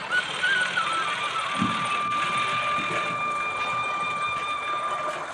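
A vehicle horn held in one long steady note, wavering in pitch for about the first second before settling, then cutting off near the end.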